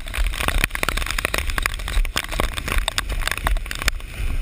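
Muffled, steady rushing of storm runoff and rain, with a low rumble and many irregular knocks and taps, heard through a GoPro's waterproof housing that is being jostled while its carrier hurries down the trail.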